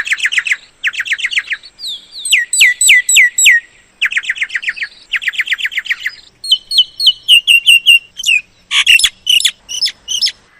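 Myna calling in quick runs of repeated notes, about seven or eight a second, switching to a new note pattern every second or so. A run of downward-sliding whistled notes comes about two seconds in, and harsher, wider notes come near the end.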